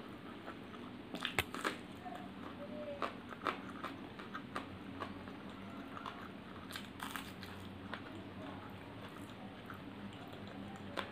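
Close-miked chewing and crunching of mouthfuls of egg fried rice and mutton curry. Scattered sharp crunchy clicks run through it, loudest about a second and a half in and again around seven seconds.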